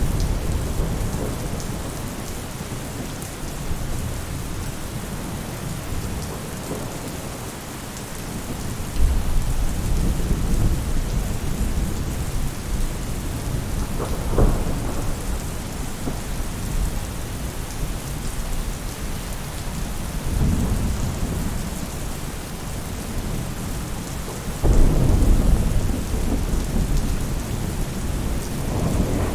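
Steady rain falling on a roof, with deep rolls of thunder that break in suddenly about a third of the way in and again near the end.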